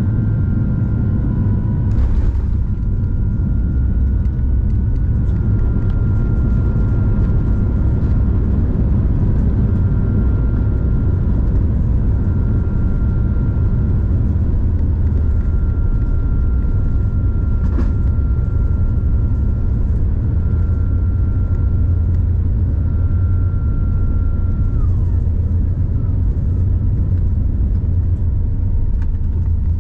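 Airbus A350-900 cabin noise: a steady low rumble of engines and airflow, with faint high tones that shift in pitch, one gliding down near the end. Two light clicks sound, about two seconds in and again past the middle.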